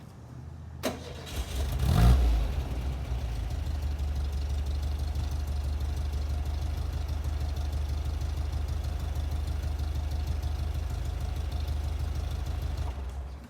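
Warm start of a Porsche 356 Vintage Speedster's engine: a click, a brief crank, and it catches about two seconds in with a short rev. It then idles steadily, and the sound stops near the end.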